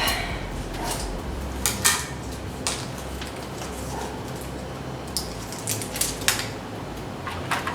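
Craft materials being handled on a table while a strip is fetched and stuck on: scattered light rustles and small clicks, with a few sharper ticks about two seconds in and again in the second half.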